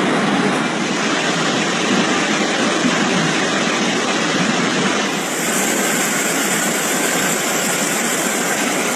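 Floodwater rushing in a torrent, a loud steady noise, with a change in its character about five seconds in.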